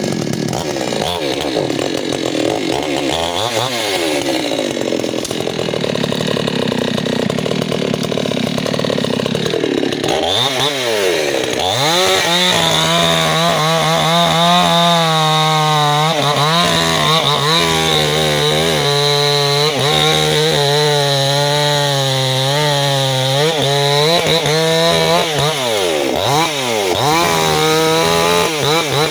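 Two-stroke chainsaw running at full throttle, cutting into a tree trunk. The engine note sags and picks back up several times as the bar bites into the wood, and holds steady at high revs through most of the second half.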